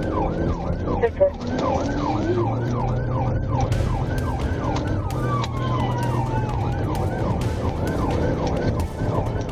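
Police siren in a fast yelp, its pitch sweeping up and down about three times a second, over a steady low vehicle drone; a second, slower falling siren tone joins briefly about four seconds in.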